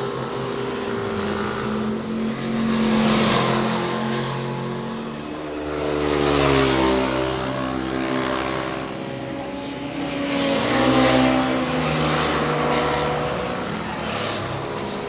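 Motorcycles passing one after another, their engines revving up and easing off through a bend, with three swells of loudness as each goes by.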